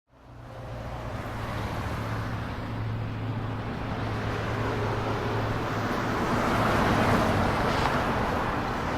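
Steady low rumble with a broad hiss, fading in at the start and slowly swelling to its loudest about seven seconds in.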